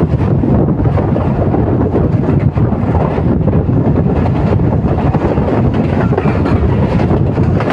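Express passenger train running through a station at speed without stopping: its coaches rush past on the rails in a loud, steady din, with wind buffeting the microphone.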